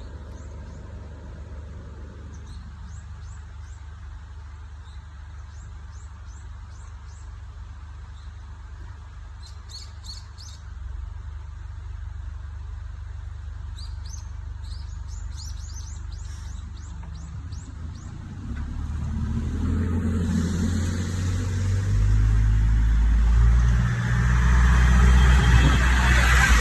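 Hino Liesse small route bus with its engine idling steadily while small birds chirp; about 18 seconds in the engine revs up as the bus pulls away from the stop, growing steadily louder with its note changing in steps near the end.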